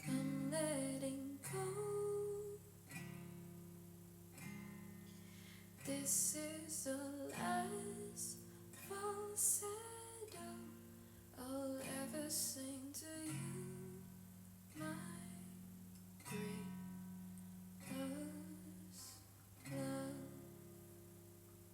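Acoustic guitar strumming slow chords, about one every second and a half, with a soft wordless vocal line drifting over them.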